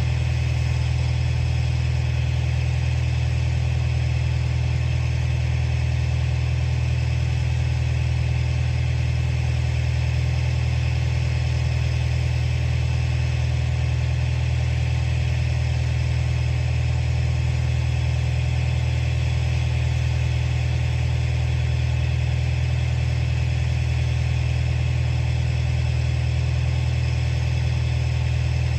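Komatsu bulldozer's diesel engine running at a steady speed, a steady low drone with no revving or load changes.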